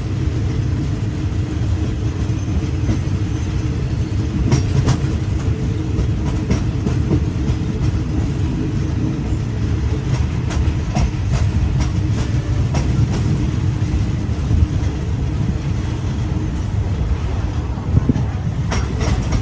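Passenger train hauled by a QSY-class diesel-electric locomotive running, a steady low rumble with scattered sharp clicks of wheels on the rails.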